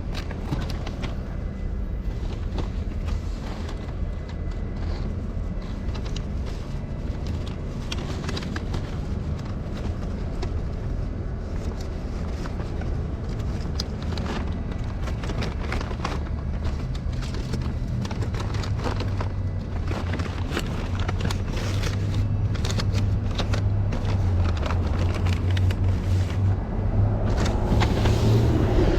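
Road noise from a delivery vehicle under way: a steady low rumble with scattered knocks, building louder in the second half.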